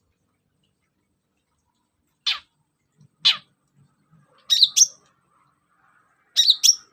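Long-tailed shrike (cendet) calling: two harsh notes about a second apart, each sweeping down in pitch, then two quick pairs of sharp high notes.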